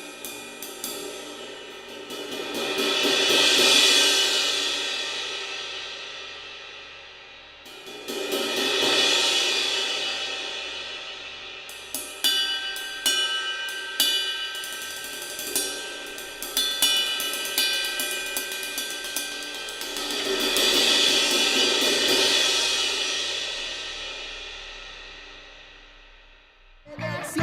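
Arborea Hybrid AP B20 bronze cymbals played with sticks: quick taps at first, then three swells that build up and ring out slowly, with a run of single strikes whose ringing tones hang on between them.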